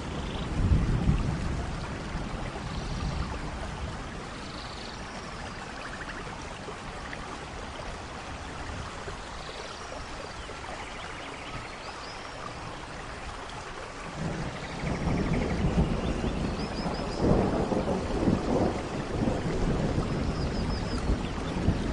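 Steady tropical rain with rolling thunder, a short rumble about a second in and a longer one building from about two-thirds of the way through. Birds chirp and trill faintly over the rain.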